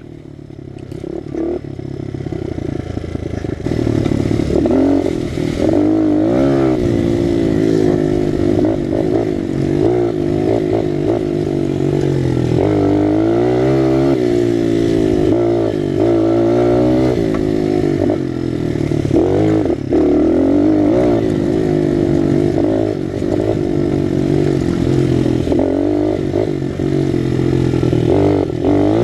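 Honda XR100 pit bike with a BBR 120 big bore kit, its single-cylinder four-stroke engine being ridden hard. It gets louder over the first few seconds, then its pitch rises and falls again and again through the throttle and gear changes.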